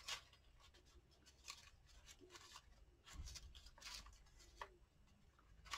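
Near silence with a few faint, short rustles and light taps from craft butterfly cutouts being picked through and handled.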